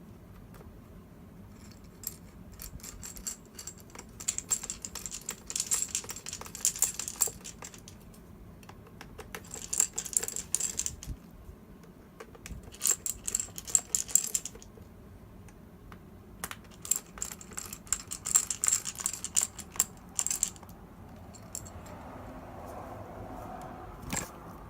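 Rapid small metallic clicks and rattles in four bursts of one to four seconds each: small screws and a small screwdriver being handled.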